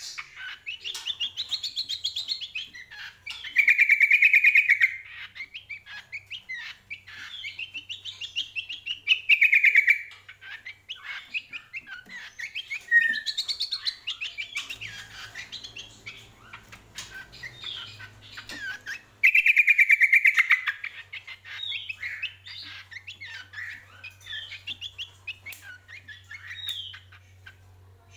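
Cucak kombo, a spiderhunter, singing: several loud bursts of rapid trilling, each a second or two long, separated by quick chattering chirps.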